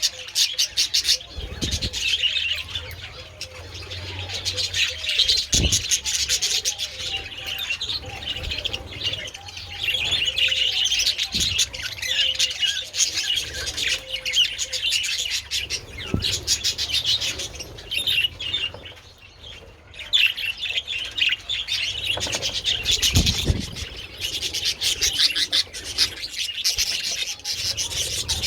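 A flock of budgerigars chattering and warbling without pause, a busy stream of quick chirps, clicks and trills, easing briefly twice.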